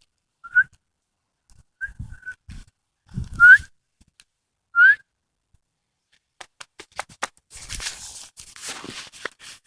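A person whistling short, rising calls to get a dog's attention, about five quick whistles, the loudest two about three and a half and five seconds in. Clicking and rustling follow in the second half.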